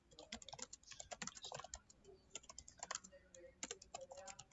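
Faint typing on a computer keyboard: a quick, uneven run of key clicks.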